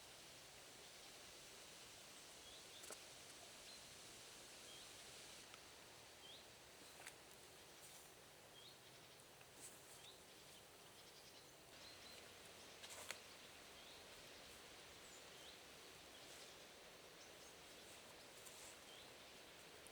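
Near silence: faint woodland ambience, a soft hiss with short high chirps every second or two and a few faint ticks, the clearest about thirteen seconds in.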